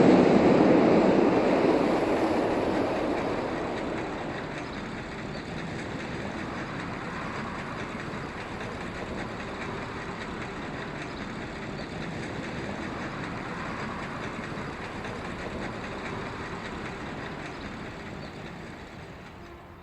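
A train rumbling past on the rails and moving away. It is loud at first, dies down over the first few seconds, continues as a steadier, quieter rumble, then fades further near the end.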